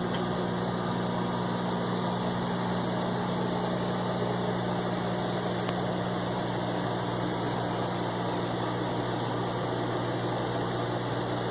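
Milling machine running with a steady, even hum and no change in load.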